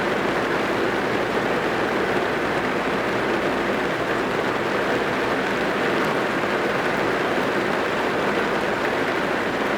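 Steady rain drumming on a car's roof and windows, heard from inside the cabin as an even, continuous patter.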